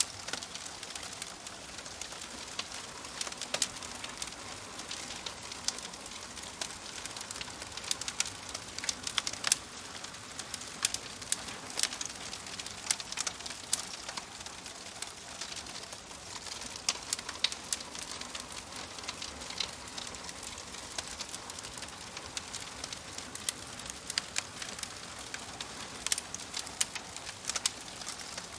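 Wood fire crackling in a fireplace: a steady soft hiss with many sharp, irregular pops and snaps scattered throughout.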